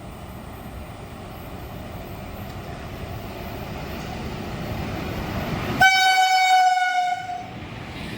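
Rumble of an approaching express train led by a WAP-7 electric locomotive, growing louder, then one loud blast of the locomotive's horn nearly six seconds in, lasting about a second and a half and dropping slightly in pitch before it cuts off.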